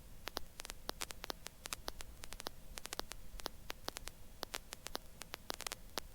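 Faint, irregular static clicks and crackle over a low hum, heard through the helicopter's headset intercom audio feed.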